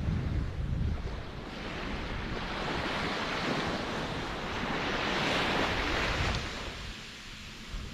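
Ocean surf: a low rumble at first, then a wave's hiss of foam swells from about two seconds in and dies away near the end.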